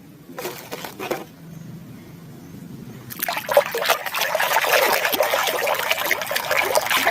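Water running and splashing over a muddy toy animal as it is rinsed, starting about three seconds in, with small knocks of the toy being handled.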